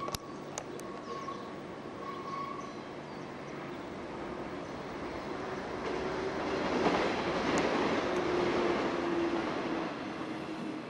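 Enoshima Electric Railway train passing out of view: the rumble of wheels on the track swells to its loudest about seven to nine seconds in, with a steady motor hum, then eases off. A few sharp clicks sound near the start.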